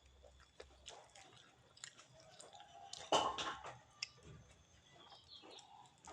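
A person chewing and eating close to the microphone: soft mouth clicks and chewing, with one louder burst about three seconds in.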